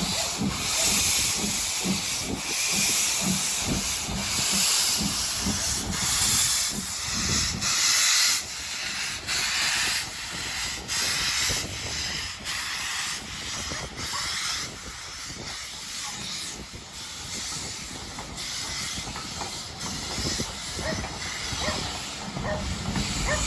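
Steam locomotive hissing steam, with a low rumble under it for the first eight seconds; the hiss slowly eases through the second half.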